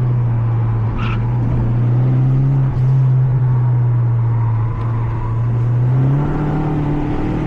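Mazda 3 MPS's turbocharged 2.3-litre four-cylinder running under load at fairly steady revs, heard from inside the cabin. Its pitch sags slightly through the middle and climbs again about six seconds in.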